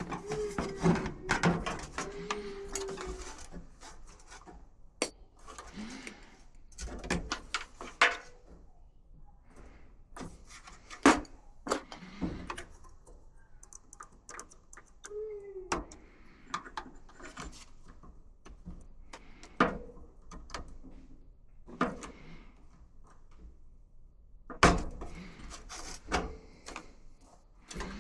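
Intermittent knocks, clicks and clatter of hands and tools working on a clothes dryer's cabinet, with a few short squeaks near the start and one about halfway through.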